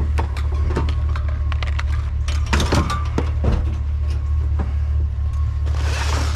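Rummaging through a pile of discarded junk and scrap metal: scattered knocks and clinks as items are shifted, with a brief rustle near the end, over a steady low hum.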